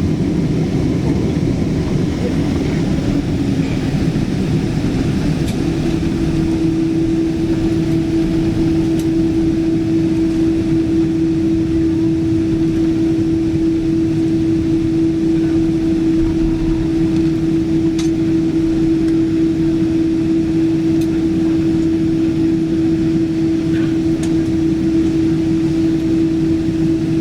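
Steady jet engine noise inside the cabin of a Boeing 777-200, heard from a seat by the wing as the airliner readies for departure; a steady hum comes in about five seconds in and holds at one pitch.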